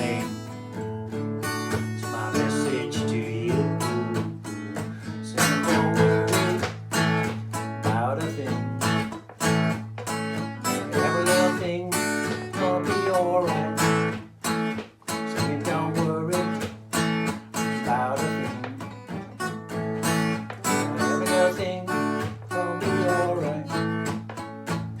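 Acoustic guitar strummed in a steady rhythm, with a melody running over the chords.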